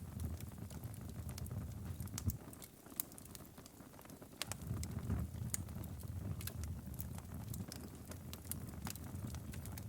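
Wood fire crackling: irregular sharp pops and snaps over a low steady rumble of flames. The rumble eases for a moment about three seconds in, then returns.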